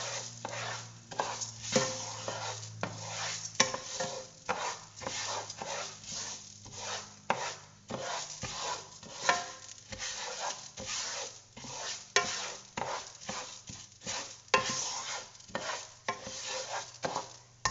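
A spoon stirring and scraping rice around a pan of melted butter and onions, the grains sizzling as they are coated and toasted for risotto, with frequent irregular scrapes and taps of the spoon against the pan.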